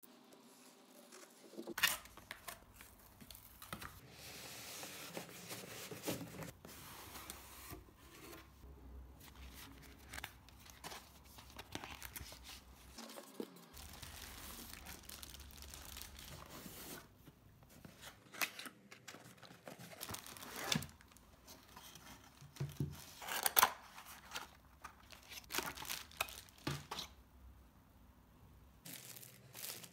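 Packaging being opened by hand, tearing and crinkling as wrap and cardboard are pulled apart. Stretches of rustling are broken by scattered sharp clicks and knocks as parts are handled.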